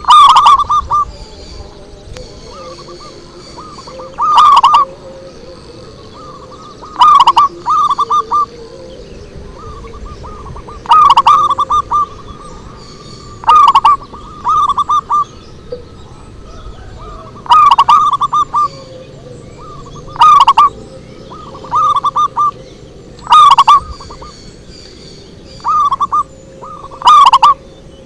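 Zebra dove (perkutut) song: loud, short phrases of rapid cooing notes, repeated about a dozen times at two-to-three-second intervals.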